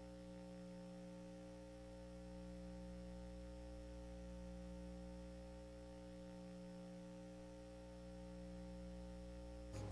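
Faint, steady electrical mains hum, a buzz made of several unchanging tones. Right at the end a short burst of noise breaks in.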